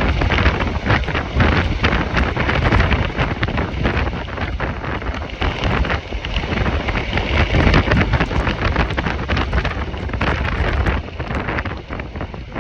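Strong Santa Ana wind gusting, buffeting the microphone with a loud low rumble and rushing noise that swells and drops with each gust, easing slightly near the end.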